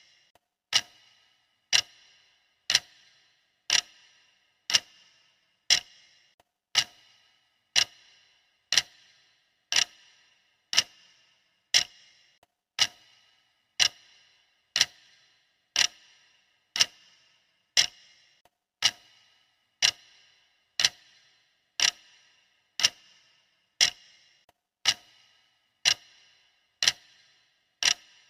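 Clock-style ticking of a countdown timer, steady at one tick a second. Each tick is a sharp click with a short ringing tail.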